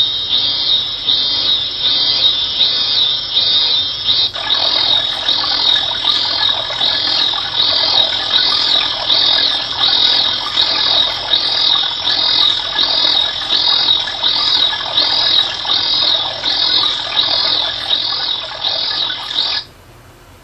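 A natural-sound auditory stimulus played back for an ASSR experiment: a steady train of high chirps, a little under two a second, with a rushing noise joining about four seconds in. It stops abruptly near the end.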